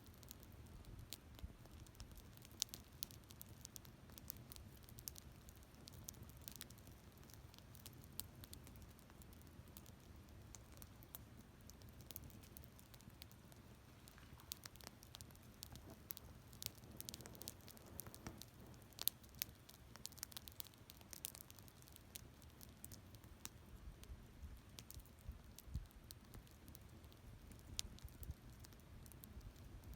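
Wood fire crackling, with quiet, irregular snaps and pops over a faint low rumble.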